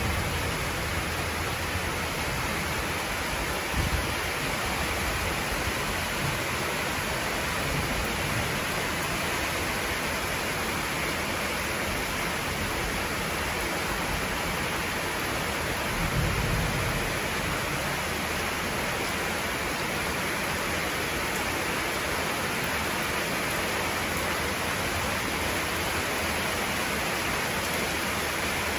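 Heavy rain pouring steadily, an even hiss with no let-up. Two brief low thumps stand out, one about four seconds in and a slightly longer one a little past the middle.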